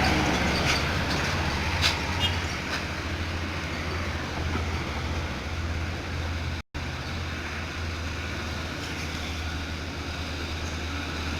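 Truck engine running steadily under load while climbing an uphill grade, a low drone with a few light clicks in the first seconds. The sound drops out completely for an instant about two-thirds of the way through.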